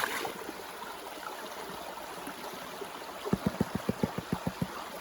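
Stream water running steadily. About three seconds in comes a quick run of about a dozen low taps, roughly eight a second, on a gold pan being tapped to settle the concentrates and show any gold.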